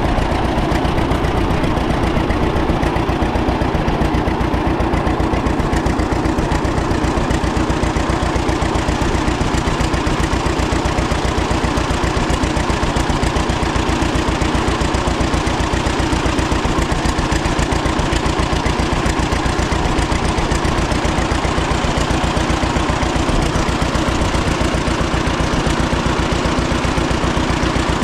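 1936 John Deere Model A's two-cylinder engine running steadily at idle, with the even popping beat of the two-cylinder.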